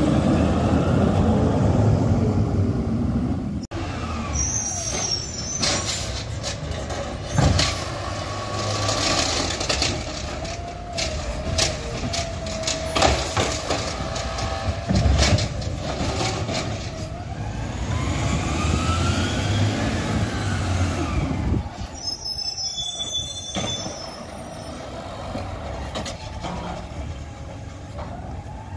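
Garbage trucks at work: diesel engines running and revving, with whines that rise and fall in pitch, sharp bangs and knocks, and air-brake hisses. The sound changes abruptly twice as one truck gives way to another.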